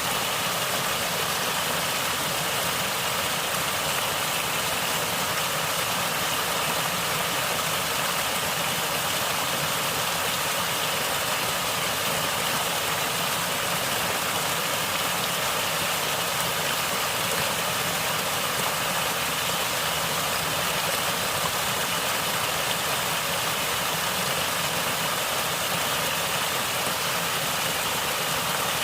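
Natural water flowing and gurgling in a steady, unbroken rush.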